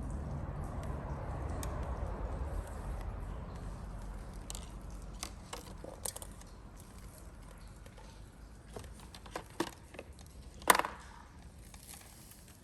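Wood campfire crackling, with scattered sharp pops and one louder pop near the end, over a low rushing noise that fades in the first few seconds.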